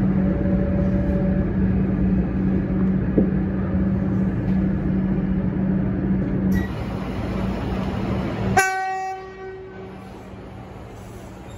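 Metro Comeng electric train running, with a steady hum and rumble inside the carriage. About eight and a half seconds in comes a short, sharp train horn blast that fades within a second.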